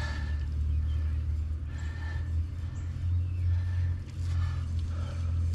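A steady low hum of an engine running, with a few faint short higher sounds above it.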